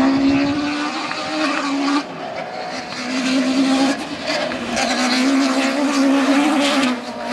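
Rally kit car engine at high revs, its note held steady and high, with brief drops about two, four and seven seconds in as the car shifts gear or lifts off.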